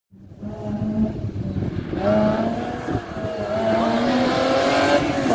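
Rally car engine driven hard, its pitch rising and falling as it revs through gear changes and lifts. The sound comes in suddenly and builds over the first second.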